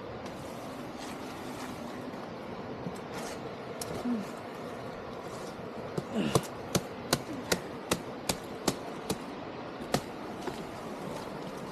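A blade, a machete, chopping at wood or vegetation: a run of about a dozen sharp, evenly spaced knocks, two to three a second, starting about halfway in.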